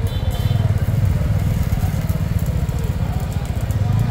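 Road traffic with engines running close by, a continuous low rumble, and a short vehicle horn toot at the very start.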